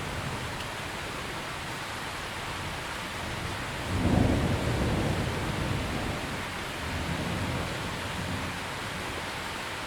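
Steady heavy rain with a low roll of thunder that breaks in about four seconds in and rumbles away over the next few seconds, with a weaker rumble a little later.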